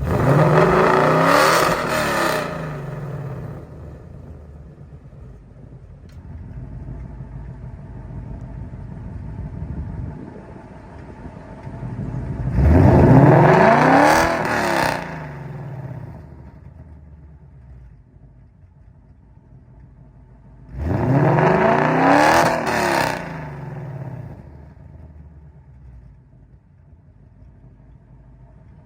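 2022 Ford Mustang GT's 5.0 V8, fitted with 1-7/8-inch long-tube headers and active exhaust, revved three times from idle. Each rev climbs quickly and falls back over two to three seconds, with the engine idling in between.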